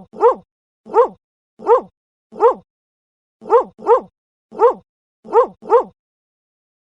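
A dog barking: about ten short barks, some single and some in quick pairs, each bark alike and dipping slightly in pitch.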